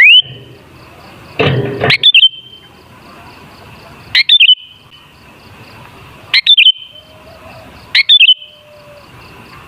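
Sooty-headed bulbul (kutilang) calling: a short, loud burst of chirping notes ending in a brief held whistle, repeated about every two seconds. A short noisy burst comes just before the second call.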